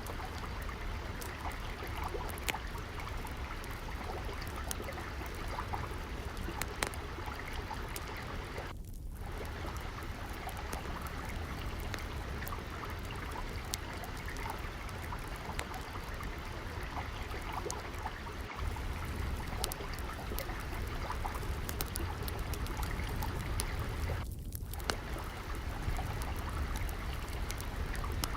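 Steady trickling, flowing water with frequent sharp pops and crackles of a wood fire layered over it.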